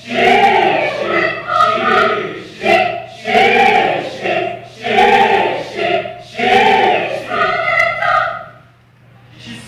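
A choir of many voices in unison, chanting in short rhythmic phrases about a second long, with a brief pause near the end.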